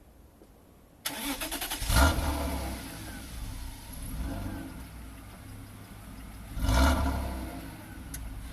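BMW E34 525i's M50B25 2.5-litre straight-six cranked on the starter about a second in, catching with a loud flare of revs, then idling. The throttle is blipped once near the end.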